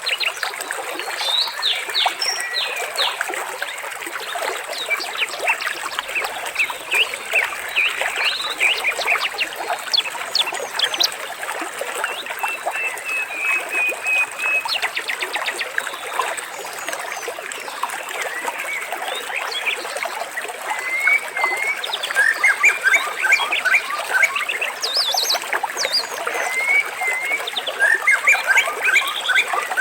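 Dense chorus of short chirps and calls from birds, with a brief trill about halfway through, over a steady trickle of running water.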